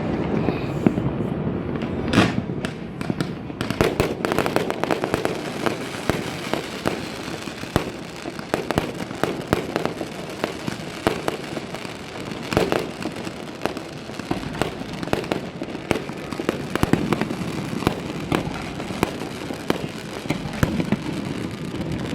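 A fireworks display: a dense, continuous run of crackling and popping bursts with louder bangs standing out here and there, over a low rumble of distant explosions.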